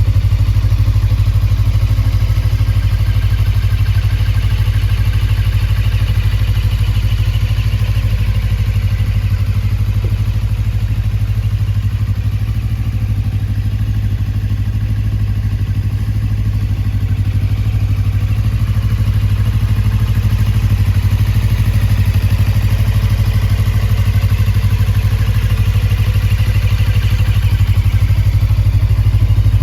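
2014 Suzuki GSR250's parallel-twin engine running steadily at idle, heard through a BMS aftermarket muffler.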